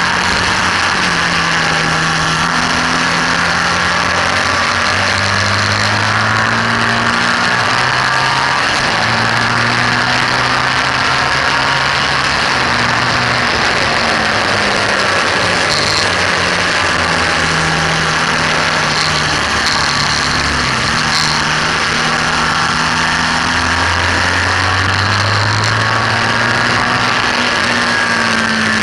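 BMW R1200S boxer-twin engine under hard riding on a race track, its pitch climbing and dropping again and again as the bike accelerates, shifts and slows for corners, heard through heavy wind rush on the bike-mounted camera's microphone.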